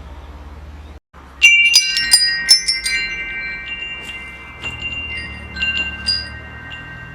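Metal wind chimes struck in a quick flurry about a second and a half in, the tubes ringing on with long, clear, overlapping tones, and a few lighter strikes later.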